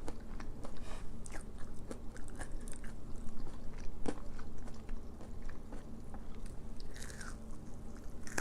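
Mouth chewing and crunching crispy oven-baked onion rings in irregular crackly bites.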